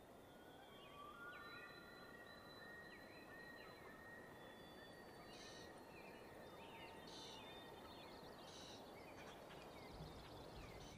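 Faint outdoor ambience with birds calling: long, held whistled notes, and a short high call repeated three times about a second and a half apart.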